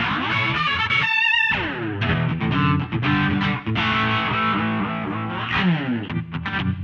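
Electric guitar played through the SSL MODULE8 modulation multi-effects plugin, its tone swept by moving modulation effects.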